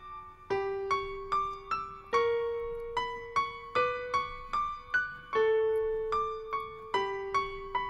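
Background music: a gentle piano melody of single notes, several a second, each dying away, over held lower notes.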